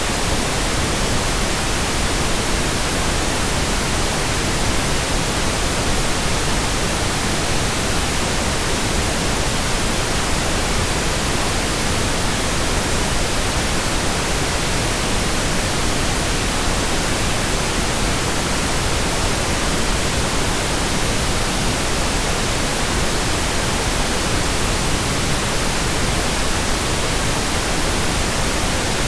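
Steady white noise: an even, unchanging hiss spread evenly across all pitches.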